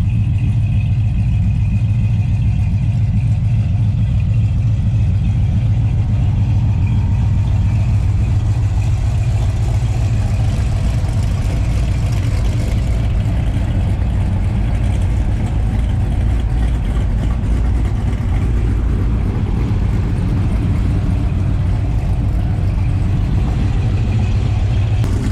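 A car engine idling steadily with an even, low rumble.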